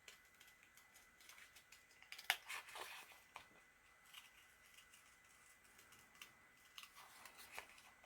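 Faint paper rustling and crinkling as sheets are handled, with a louder crackly burst about two seconds in and a smaller one near the end.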